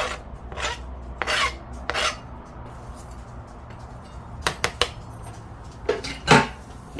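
Kitchen utensil scraping and knocking against cookware while chopped green onions go into the pan of orange chicken. It comes as short rasping strokes, a few sharp clicks about halfway through, and the loudest scrape near the end.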